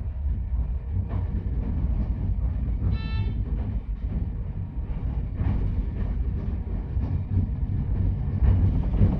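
Ichibata Electric Railway 7000 series railcar running, heard from inside: a steady low rumble with a few faint knocks from the track. A brief horn toot comes about three seconds in.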